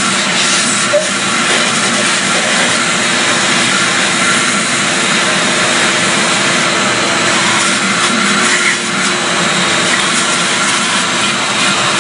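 Shop vacuum running steadily, a loud even whine and rush of air that does not change.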